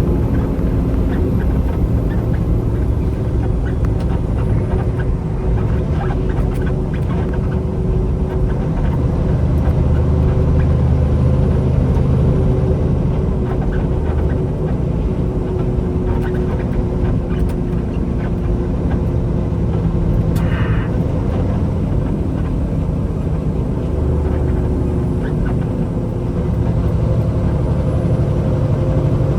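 Truck on the road: a steady diesel engine drone with low road rumble.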